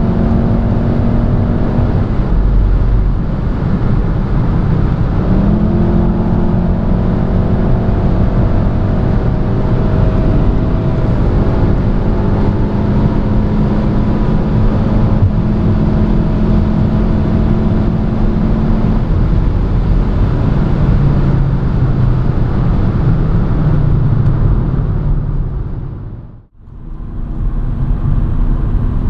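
Turbocharged 2.0-litre four-cylinder hot hatch engine under hard acceleration at high autobahn speed, heard from inside the cabin along with road noise. Its pitch holds, then jumps at gear changes and climbs slowly. The sound fades out briefly about 26 seconds in and comes back.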